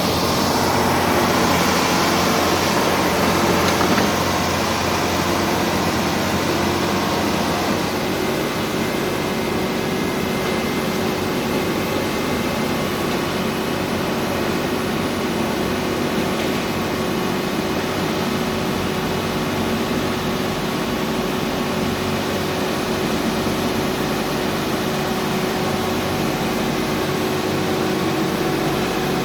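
Heavy earthmoving machine's diesel engine running steadily, a little louder for the first few seconds, then settling to an even drone with a held tone in it.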